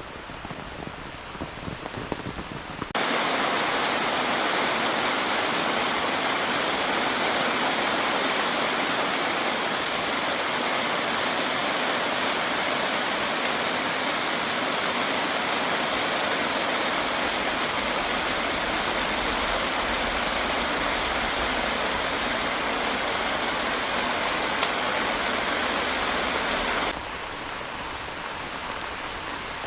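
Heavy rain. A steady patter switches abruptly about three seconds in to a much louder, dense, even rush of downpour, which drops back just as suddenly to the lighter patter near the end.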